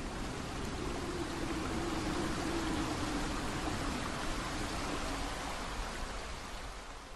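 Mountain stream water rushing and splashing steadily, fading out near the end.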